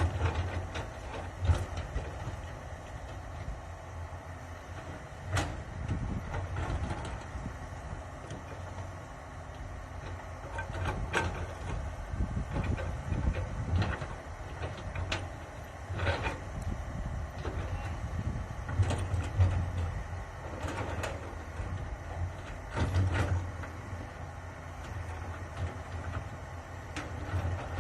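Komatsu PC200 hydraulic excavator's diesel engine running steadily, with sharp metallic knocks every few seconds.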